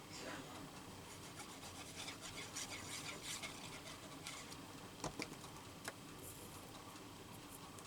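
Light rubbing and scratching on paper in a run of short strokes, followed by three sharp clicks about five to six seconds in.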